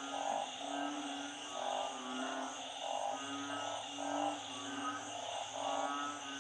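Chorus of frogs after heavy rain: narrow-mouthed frogs (อึ่ง) and small frogs (เขียด) calling over one another, with repeated short calls every half second or so, slower drawn-out low calls, and a steady high trilling behind them.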